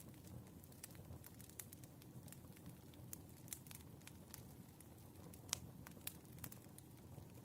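Firewood burning: faint, irregular crackles and pops over a low steady rumble, with one sharper pop about five and a half seconds in.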